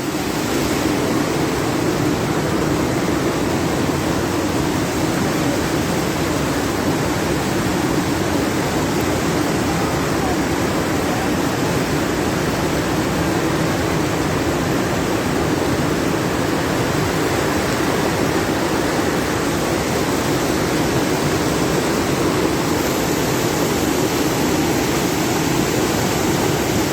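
Floodwater rushing steadily over an overflowing bridge, a swollen river in flood.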